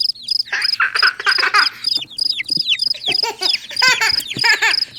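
A busy chorus of short squeaky calls falling in pitch, over a high chirp that repeats about three times a second.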